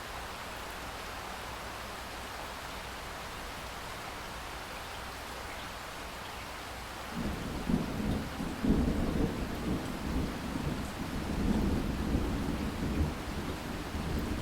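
Steady rain hiss, then about halfway through a long roll of thunder breaks in and rumbles on unevenly over the rain.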